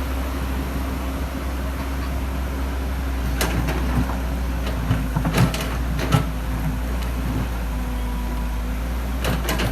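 Excavator engine running steadily, with a few short knocks about three and a half seconds in and again around five to six seconds in.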